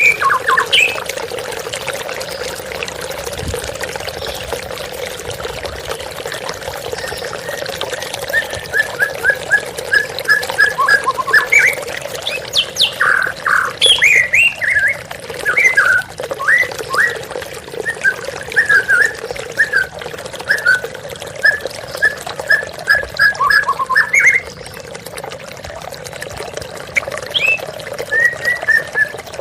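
White-rumped shama (murai batu) singing in quick runs of short, repeated whistled notes over the steady sound of a waterfall. The song pauses briefly near the end.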